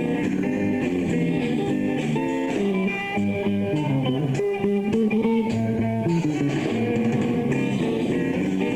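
Live rock band playing an instrumental passage led by electric guitar over bass, with runs of quick notes through the middle.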